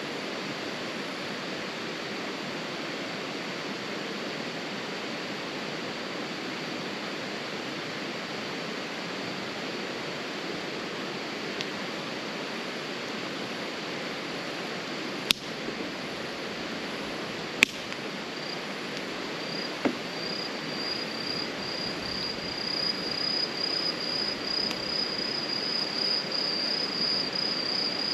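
Outdoor campfire ambience: a steady rushing noise, with three sharp pops of burning firewood about halfway through. About two-thirds of the way in, an insect such as a cricket starts a fast, high, pulsing chirp that grows louder toward the end.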